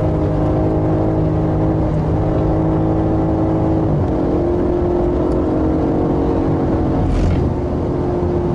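BMW M5 engine running at steady revs, heard from inside the car. About four seconds in the pitch drops to a lower, steady note, as from an upshift or lifting off the throttle.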